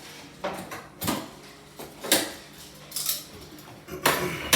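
Hard objects knocking and clattering, about six sharp knocks roughly a second apart, the loudest near the end: parts or tools being handled during under-sink plumbing work.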